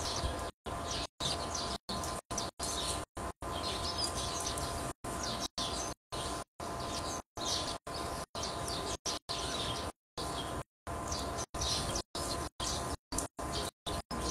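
Small birds chirping and twittering in short, irregular calls, over a faint steady tone. The sound drops out to silence many times in brief gaps.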